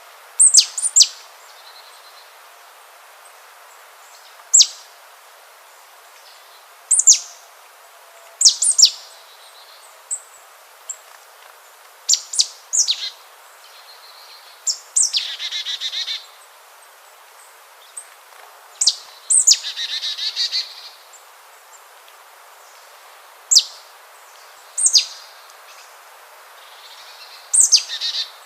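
Bird calls: sharp, high notes sweeping steeply downward, repeated every second or two, with two longer buzzy rattles about midway through.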